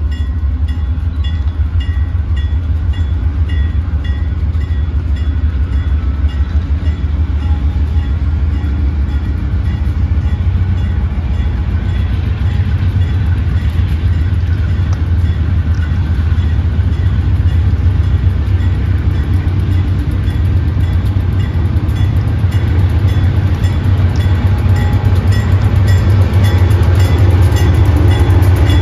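Freight train passing close by, led by GE B40-8 diesel locomotives with 16-cylinder engines, then its tank cars rolling on the rails. It makes a loud, steady low rumble that grows louder toward the end.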